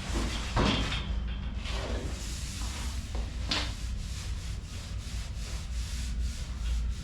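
Hand work on a welded steel fender patch: metal scraping and rubbing, with a loud scrape about half a second in and a sharper knock past the middle, over a steady low hum.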